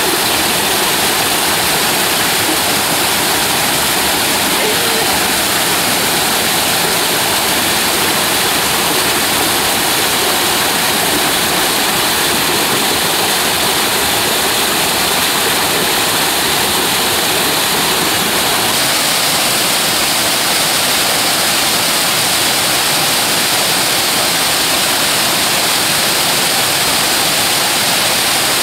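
Mountain stream water rushing over rocks in a steady, loud rush, with a slight change in tone about two-thirds of the way through.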